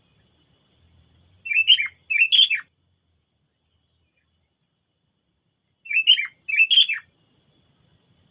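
Sooty-headed bulbul (kutilang) calling, twice, about four seconds apart. Each call is a short phrase of two quick chirpy note groups.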